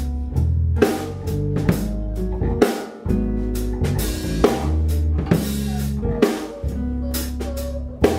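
Instrumental band music: a drum kit keeps a steady beat with kick, snare and rimshots over bass and guitar.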